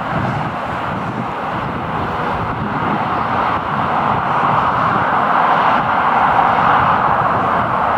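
Airliner jet engine noise: a steady noise without a clear tone that grows louder through the second half.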